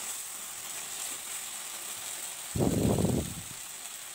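Thick onion-free masala with boiled potatoes sizzling steadily in a nonstick kadai while it is fried down. About two and a half seconds in there is a short, louder burst of the silicone spatula stirring through the thick mixture.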